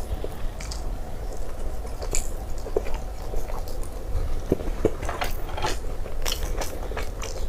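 A person chewing and biting food close to the microphone, with many short, irregular mouth clicks.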